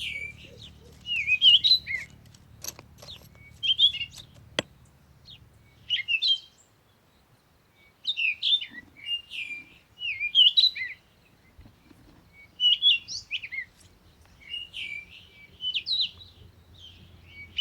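Songbird singing: short twittering phrases repeated every second or two, with a few sharp clicks about three to four and a half seconds in.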